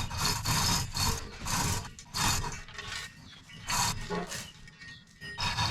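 A series of rough rubbing or scraping strokes, irregular, about one or two a second.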